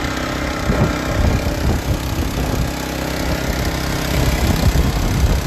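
Small petrol engine of a portable dewatering pump running steadily, just started and working up to prime.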